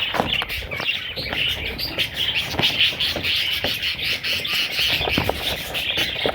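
Budgerigars chirping without pause, many small calls overlapping, with scattered light taps and clicks.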